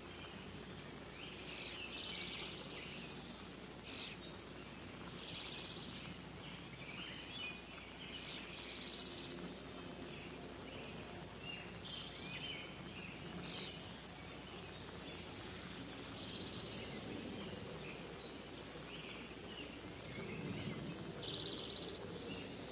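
Wild birds chirping and calling in short, scattered notes, with a few brief buzzy trills, over a steady low background noise.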